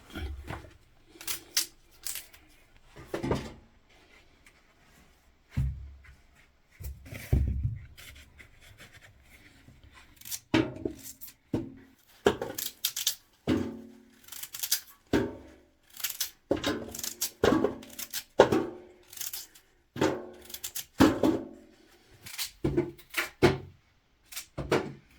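Irregular series of sharp knocks and clatters, sparse at first and coming thick and fast from about halfway, some with a short ringing tone.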